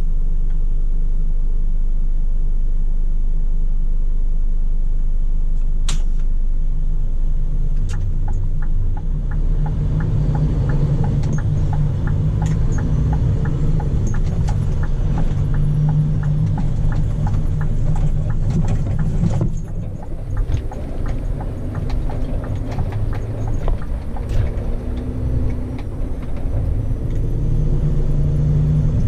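Scania P400 truck's diesel engine running with a steady low rumble. From about nine seconds in there is a run of regular clicks, and the sound drops briefly around twenty seconds in.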